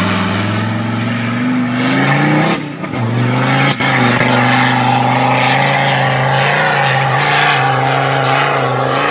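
Off-road 4x4's engine at full throttle on a sand-dune climb. The engine note rises for about two and a half seconds, drops out briefly about three seconds in, then holds steady at high revs.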